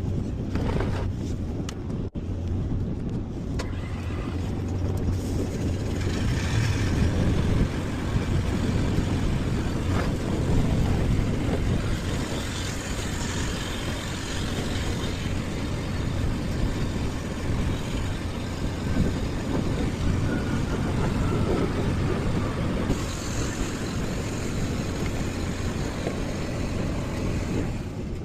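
Cummins diesel engine running at a steady speed, with a constant low hum.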